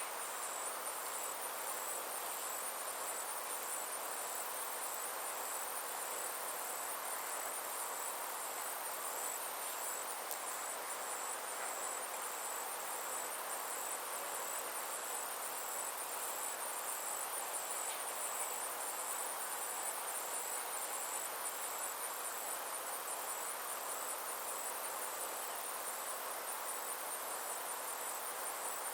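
A steady chorus of summer insects: continuous high-pitched, rapidly pulsing trills with an even, repeating chirp just beneath them. Underneath runs a steady, soft outdoor hiss.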